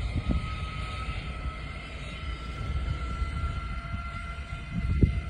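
Zip line trolley running along the steel cable, a steady high whine, with wind rumbling on the microphone and a brief knock near the end.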